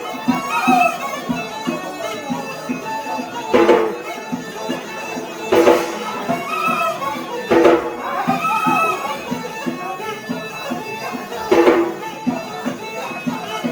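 A Yemeni mizmar, a reed pipe, plays a continuous wedding melody over a steady beat of strikes, with heavier accents about every two seconds.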